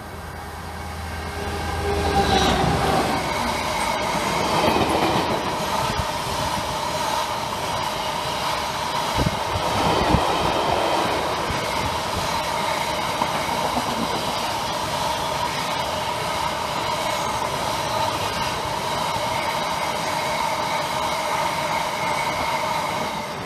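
A diesel freight locomotive passes close by with a low engine rumble in the first couple of seconds. A long rake of box wagons then rolls past with steady wheel rumble and a high ringing squeal from the wheels. There are a few heavier knocks about ten seconds in.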